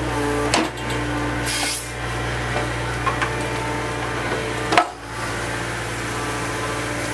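Diesel engine of heavy demolition machinery running steadily, with a sharp knock about half a second in and another near five seconds, and a brief hiss just before two seconds.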